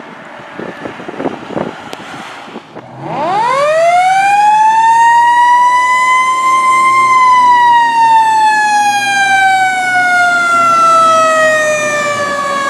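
A fire engine's siren (2010 Pierce Quantum pumper) winds up about three seconds in, rising steeply in pitch, then slowly winds down in one long falling tone. It follows a few scattered knocks.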